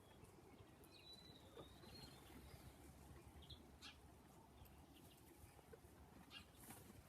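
Faint calls of native forest birds over a low background rumble: a thin, high, wavering whistle about a second in, then a few short high chirps.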